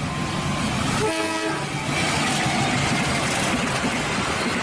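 KAI diesel-electric locomotive hauling a passenger train past, with steady engine and wheel-on-rail noise. The locomotive sounds a short horn blast about a second in.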